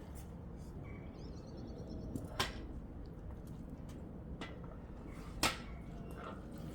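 Two sharp knocks about three seconds apart, the second louder, over a steady low rumble.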